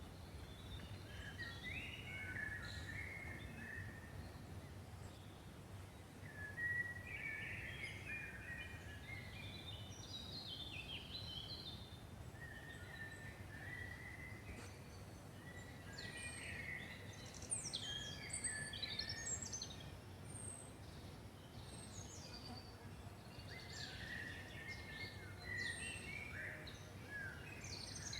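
Several songbirds singing in a forest: bursts of chirps and warbling phrases, busiest in the second half, over a steady low background rumble.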